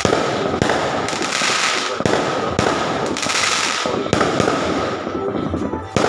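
Fireworks going off: a dense run of sharp pops and bangs, several a second, over a continuous crackling hiss.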